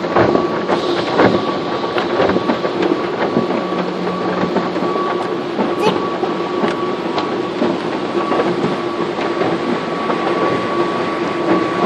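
Automatic car wash's rotating brushes scrubbing and slapping against the car, heard from inside the cabin as a continuous rumbling swish with a steady machinery hum underneath.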